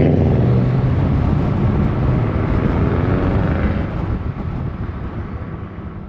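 Subaru WRX's turbocharged flat-four running through a custom 3-inch exhaust with a low, steady drone, fading away over the last couple of seconds.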